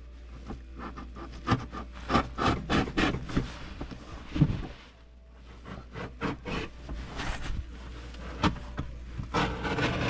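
Carpet being cut by hand: a run of short, irregular rasping strokes as the blade works through the carpet, with a brief pause about halfway.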